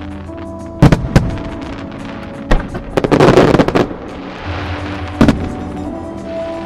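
Aerial fireworks shells bursting: sharp bangs about a second in and again later, with a dense run of crackling bursts around the middle, over show music.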